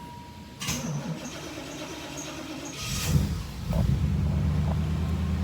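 Box Chevy's engine cold-started in below-zero cold: the starter cranks for about two seconds, the engine catches about three seconds in with a brief flare, then settles into a steady idle.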